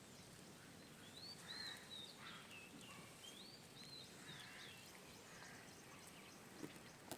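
Faint birdsong: two phrases of quick rising and falling whistled notes, about a second in and again near four seconds, over quiet outdoor background noise.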